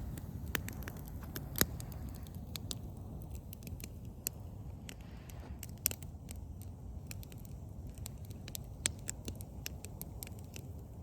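Wood campfire crackling: irregular sharp pops and snaps, a few louder ones standing out, over a low steady rumble.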